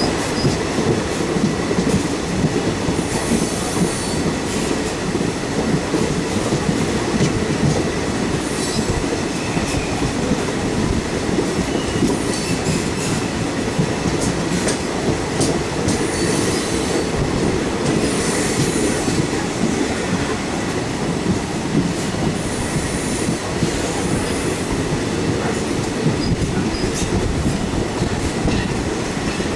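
Passenger train coach running steadily along the track, heard from its open doorway: a continuous rumble of wheels on rails, with brief bursts of high hiss every few seconds.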